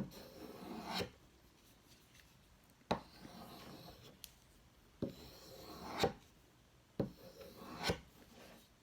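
A knife blade stroked along a leather strop loaded with sharpening compound, in repeated rubbing strokes, each ending in a sharp tap, about seven strokes at roughly one- to two-second intervals.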